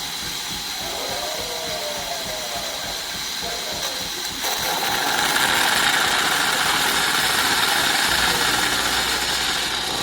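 Philips 3200 Series LatteGo espresso machine running with a steady hiss. The hiss grows louder about four and a half seconds in and stops suddenly at the end.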